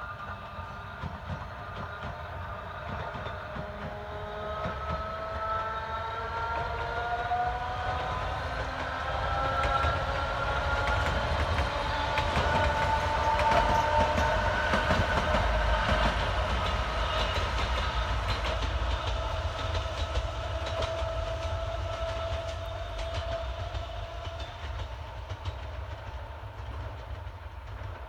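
A three-car narrow-gauge electric train of the Sangi Railway Hokusei Line goes by, its motors whining with several tones that rise in pitch over the first ten seconds or so as it picks up speed. Wheels clatter on the rails. The sound grows to its loudest about halfway through as the train passes, then fades as it moves away.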